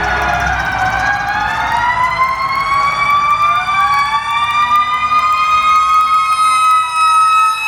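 Fire truck sirens wailing, more than one at once: one tone winds slowly up and holds a high note while another slides down, over the low rumble of the trucks' engines.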